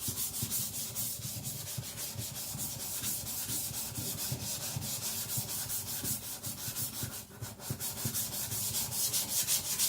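Steel blade of a Victorinox Chinese cleaver ground back and forth on a wet whetstone with abrasive slurry, a gritty scraping in quick even strokes about three a second, with a short break about seven seconds in. The blade is being thinned.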